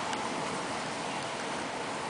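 Steady rain falling on a water-covered patio table, with a couple of faint ticks of single drops.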